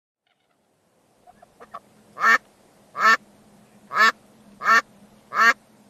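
Farm waterfowl calling: a few faint short calls, then five loud calls about one a second.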